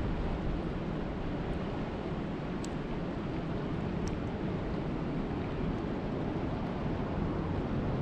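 Steady rushing of water at a lake, with a few faint sharp ticks about a third and halfway through.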